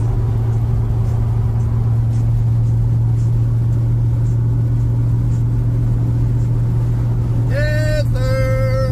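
Pickup truck driving at a steady speed, heard from inside the cab: a loud, even low drone of engine and road noise with no change in pitch.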